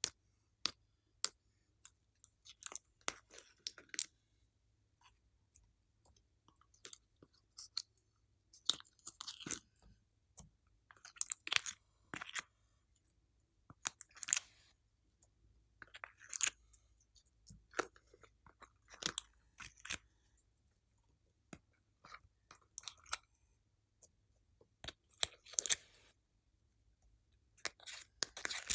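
Slime being squished and kneaded by hand: irregular bursts of sticky crackling and sharp clicking pops, with short pauses between them.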